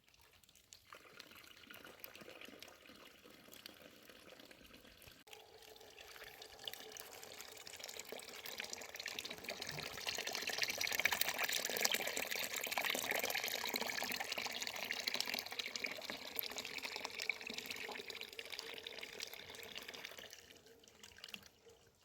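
Water running or pouring: a steady splashing rush that builds up, is loudest in the middle and tapers off near the end.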